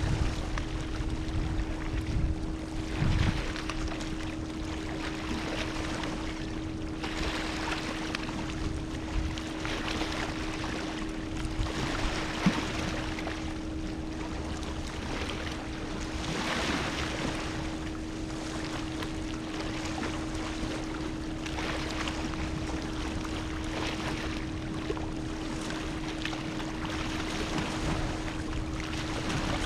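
Gentle ocean waves washing in, swelling and falling every few seconds, with a steady low hum underneath.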